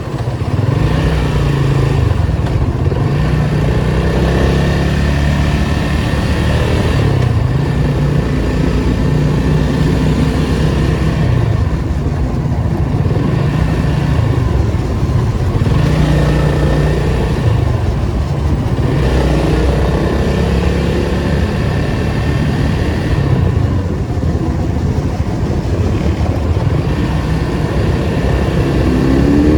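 Datsun 280Z's 2.8-litre straight-six engine driven through traffic, the revs rising and dropping again and again as it pulls away and shifts gear. Near the end the engine revs up sharply.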